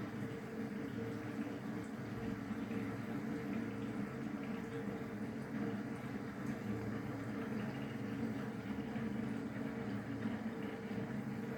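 Raw spirit diluted to 30% boiling explosively (bumping) in a home still's pot, churning steadily with small irregular surges. The heater voltage is steady and the reflux condenser hot, so the owner cannot explain the cause of the bumping.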